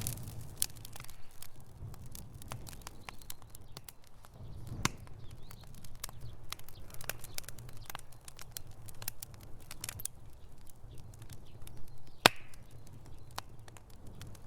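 Wood fire burning in a fireplace, crackling with irregular pops and snaps over a low steady rumble of flames; one sharp, louder pop about twelve seconds in.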